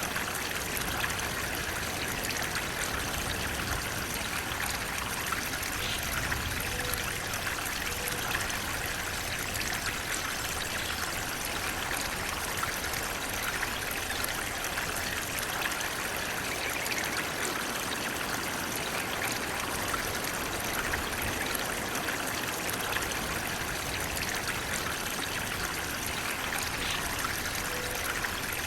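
Flowing water running steadily and without a break.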